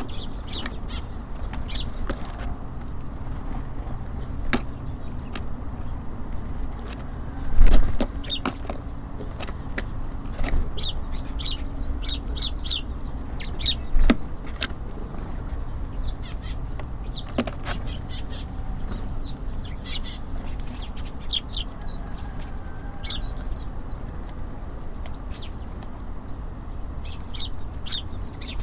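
Small songbirds chirping and calling at a bird feeder, many short, high notes scattered throughout, over a low, steady rumble. Two louder thumps come about 8 and 14 seconds in.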